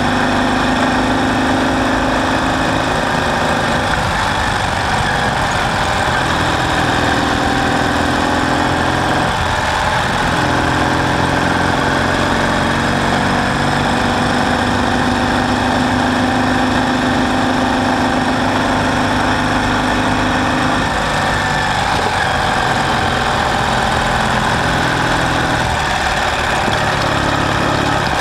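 Ural sidecar motorcycle's air-cooled boxer-twin engine running steadily, its speed stepping up and down several times.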